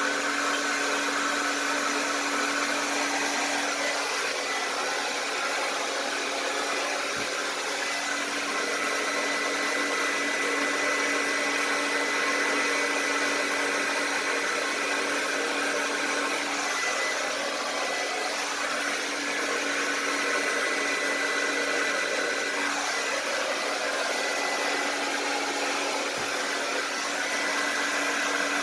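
Hair dryer running steadily, its rushing air carrying a constant low hum and a faint high whine, as it is used to push poured acrylic paint across a canvas.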